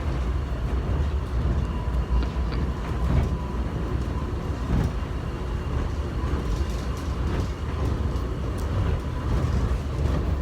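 Airport subway train running along its track, heard from inside the car: a steady low rumble with faint rattles, and a faint steady whine in the first few seconds.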